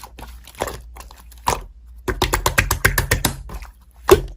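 Slime being squished and poked, giving a string of small clicking, crackling pops. About two seconds in comes a quick, even run of about eight clicks a second, and a single louder click comes near the end.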